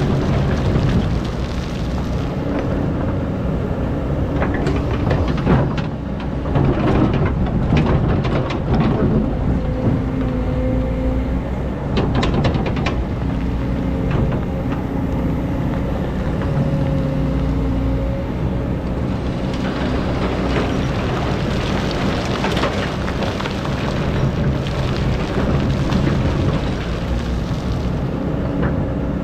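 Hydraulic excavator's diesel engine running steadily, its note shifting with load. Gritty scraping and pouring of sand, with stones rattling, comes in bursts about 5 to 9 seconds in, around 12 seconds, and again from about 20 seconds.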